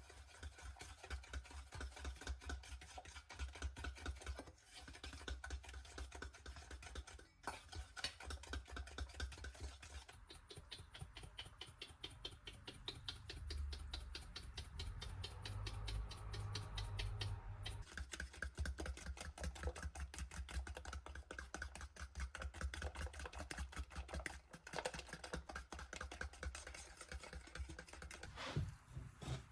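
A hand whisk or utensil clicking rapidly and steadily against a bowl, as when mixing brownie batter, with brief pauses a few times.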